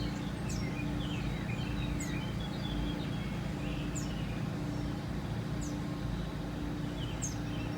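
Birds chirping, short high downward calls repeating about every second and a half, over a steady low hum.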